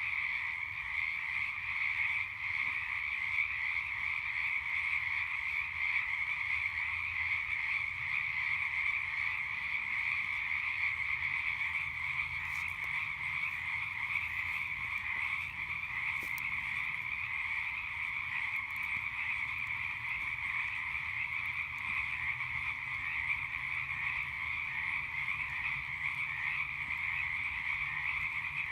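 A dense chorus of many frogs calling together at night, a steady unbroken din of overlapping calls.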